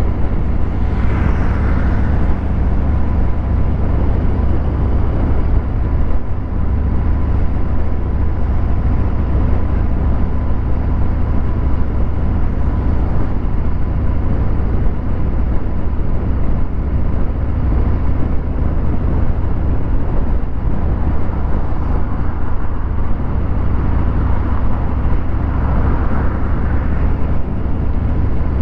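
Harley-Davidson Fat Bob 114's Milwaukee-Eight V-twin running through a Vance & Hines Hi-Output 2-into-1 exhaust, a steady deep exhaust note heard from the rider's position. A brief higher sound rises over it about a second in and again near the end.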